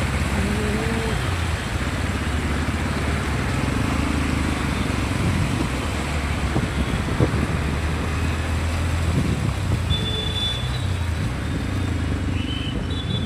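Motor vehicle engines running in road traffic over a steady hiss.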